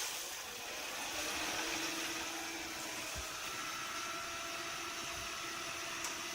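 A vehicle's engine running steadily, with a faint steady whine over the noise.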